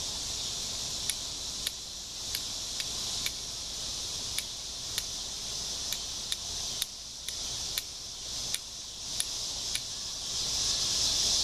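Steel striker struck repeatedly against a flint to throw sparks onto char cloth: sharp metallic clicks about two a second, stopping shortly before the end. A steady high insect chorus runs underneath and swells near the end.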